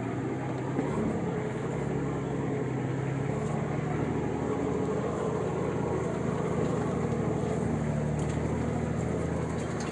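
A vehicle engine running at a steady low drone, its pitch shifting only slightly, heard from inside the vehicle along with a light rumble.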